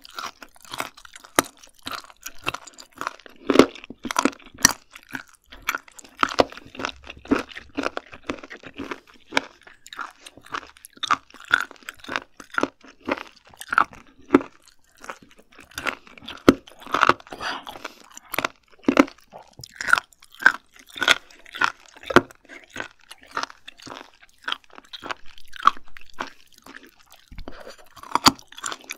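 Close-miked chewing of raw seafood sashimi: crisp crunching chews, several a second, with no pause.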